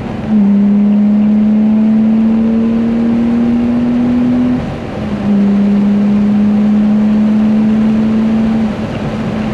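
BMW E36 M3 straight-six engine and exhaust pulling hard under acceleration, heard from inside the cabin. Its note climbs slowly through each gear and drops briefly at upshifts about five seconds in and again near the end.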